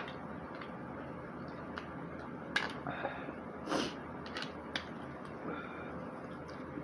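Eating sounds: a few scattered mouth clicks and smacks and a short breath through the nose, over a steady background hiss.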